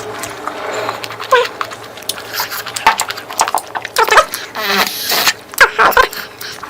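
Close-miked eating: wet chewing and lip-smacking clicks, with a few short squeaky slurps.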